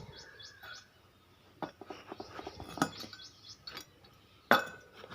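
Metal engine parts knocking and clinking as they are handled: a quick run of light clicks, then a sharper clank near the end with a brief metallic ring. Birds chirp faintly in the background.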